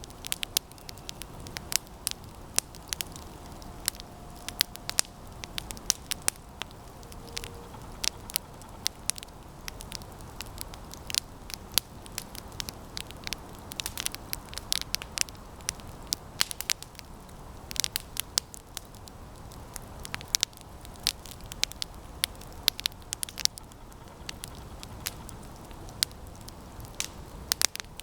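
Campfire of resinous pine branches crackling, with many irregular sharp pops and snaps over the steady low rush of the flames.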